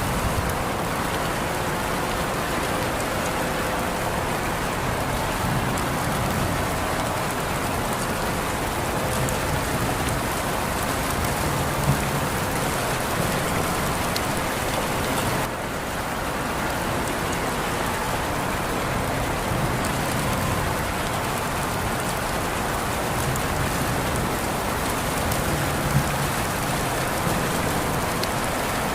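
Steady rainfall, with an even hiss of drops on surfaces and an occasional single louder drop.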